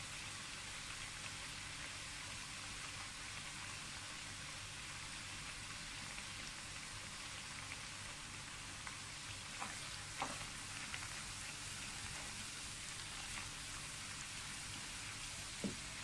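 Dried anchovies (ikan bilis) deep-frying in hot oil in a wok: a steady sizzle with a few sharp crackles around the middle and a sharp tick near the end. The sizzle means they are not yet done; it dies away once the anchovies are fully cooked and crisp.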